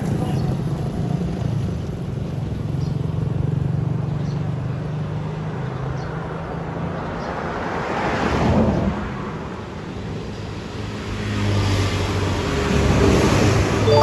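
Road traffic passing close by: engines running with tyre noise, one vehicle going past about eight seconds in and another about thirteen seconds in.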